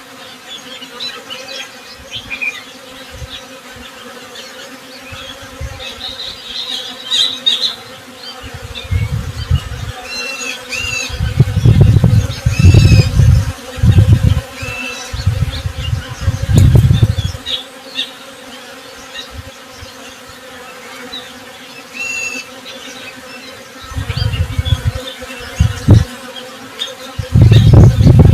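Honey bees buzzing close by, the low buzz swelling and fading in several passes as bees fly near, over a faint steady hum. Birds chirp briefly now and then.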